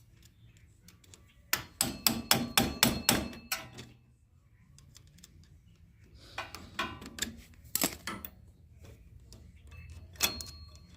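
Metal clicks and clinks of a go-kart roller chain being worked loose and pulled off by hand. A quick run of about ten sharp clicks comes a couple of seconds in, another cluster comes midway, and a few more come near the end.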